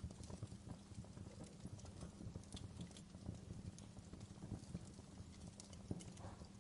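Wood fire burning in a fireplace, crackling with many small irregular pops and snaps over a low, steady rumble of the flames, with a sharper pop about six seconds in.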